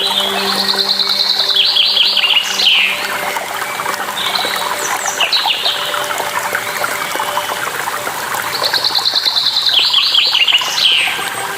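A songbird singing over steadily rushing water. Its phrase, a fast high trill followed by a run of falling notes, comes twice, with a shorter call in between. A low steady hum fades out during the first few seconds.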